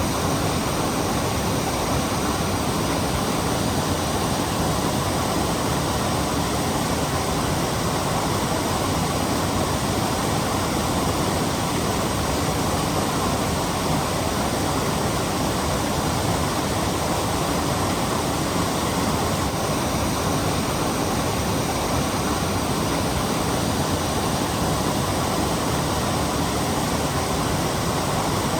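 Torc Waterfall's steady rushing roar of falling water, an even noise that neither rises nor falls.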